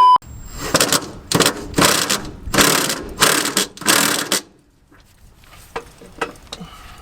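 Hand ratchet wrench cranking a bolt tight in a string of loud ratcheting strokes, stopping about four and a half seconds in, followed by a few light metallic clicks.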